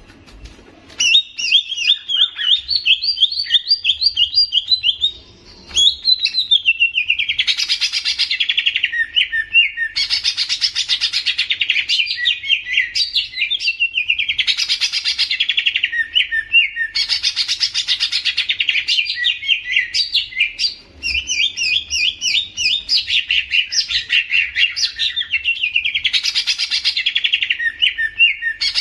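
A songbird singing: rapid, high chattering phrases of quick repeated notes, each a few seconds long and often ending in a falling run, repeated with short breaks.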